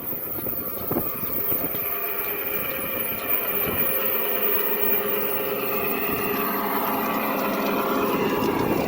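A motor running steadily, a hum of several pitched tones that slowly drifts up and down in pitch.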